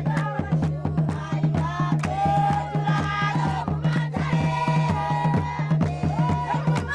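Group of voices singing in chorus, one voice leading, over a steady drum beat and a constant low drone.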